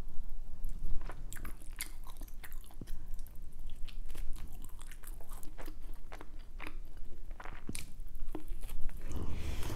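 Close-miked eating sounds: a woman chewing and biting Indian food, with irregular wet clicks and crunches from the mouth. A denser, louder crunch comes near the end.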